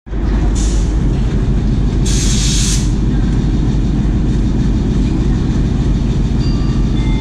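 Train running on the rails with a loud, steady low rumble that starts abruptly, with two short bursts of hiss about half a second and two seconds in.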